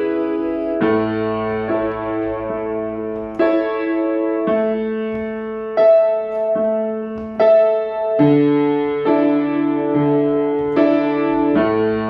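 Piano or keyboard playing sustained chords, a new chord struck about every one to one and a half seconds, as an instrumental interlude of a worship song.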